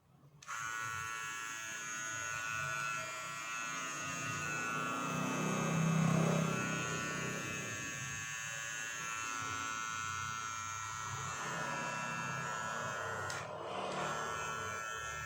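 Electric hair trimmer switched on about half a second in and running with a steady buzz, briefly dipping near the end.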